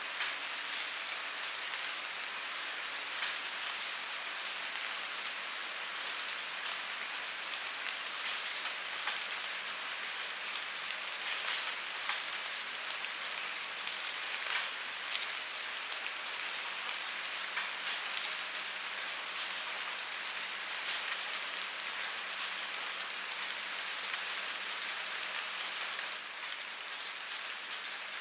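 Steady rain falling on a surface, a constant hiss with many individual drops pattering through it. It gets a little quieter near the end.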